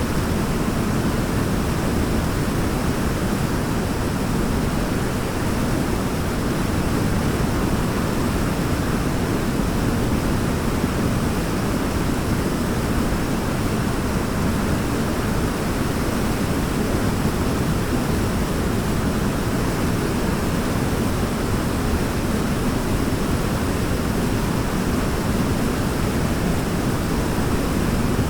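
Waterfall: water falling and splashing in a steady, deep rush that never changes.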